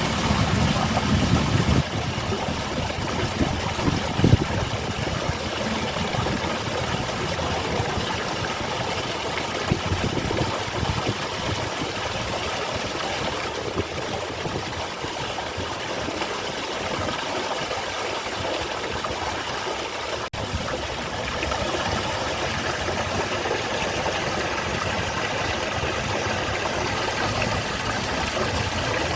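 Garden waterfall: water falling and splashing steadily as an even rushing. A low rumble sits under it in the first two seconds and briefly again about four seconds in.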